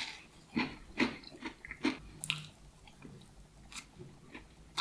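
A person biting and chewing a crispy-coated fried chicken wing: a quick run of short crunches in the first two and a half seconds, softer chewing after, and one more crunch near the end.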